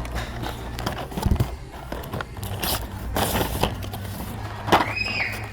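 Hot Wheels five-pack cardboard and plastic blister packaging being handled: scattered clicks, crackles and scrapes, with a brief tone near the end.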